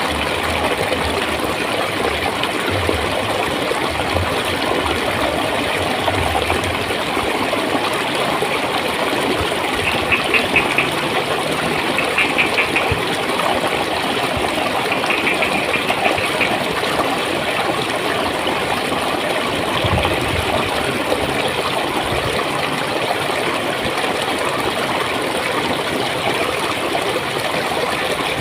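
Steady rush and gurgle of flowing stream water. Around the middle come three short, rapid high trills.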